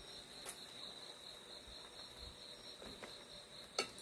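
Crickets chirping in a faint, steady high trill, with a couple of small clicks, the sharper one near the end.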